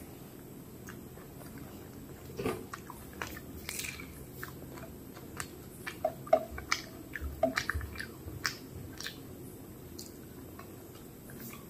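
Close-miked chewing of a mouthful of rice and curry, with sharp wet mouth clicks and smacks, mostly between about two and nine seconds in.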